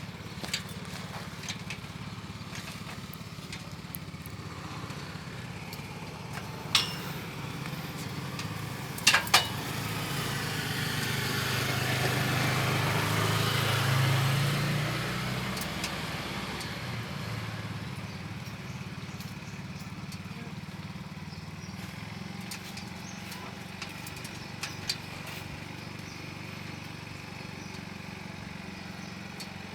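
A motor vehicle passes by, growing louder to a peak about halfway through and then fading away, over a steady low engine-like hum. A few sharp knocks sound before it arrives.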